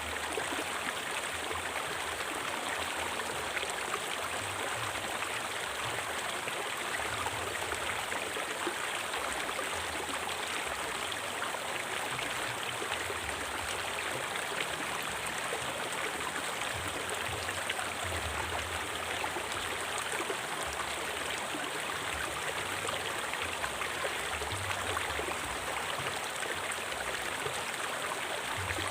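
River water flowing over rocks: a steady rush with a fine splashing texture.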